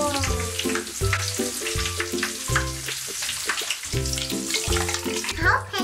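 Bath crackles crackling and fizzing in bathwater, a dense sizzle of tiny pops, under background music with a steady beat.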